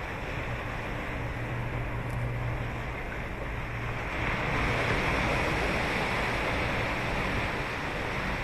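Ocean surf washing on a sandy beach, a continuous rush of breaking waves that swells louder about four seconds in as a wave breaks.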